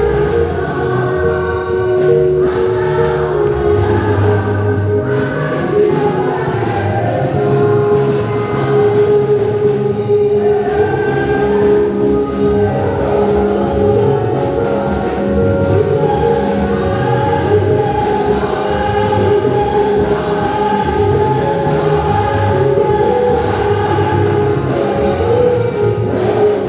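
Church choir singing a gospel song over band accompaniment, with a low bass line moving underneath the voices.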